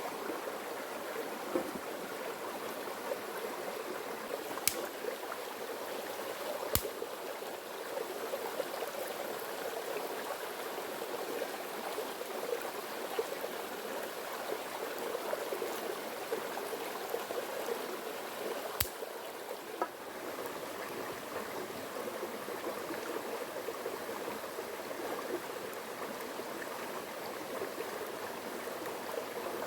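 Running water of a stream, a steady bubbling rush, with three sharp clicks over it.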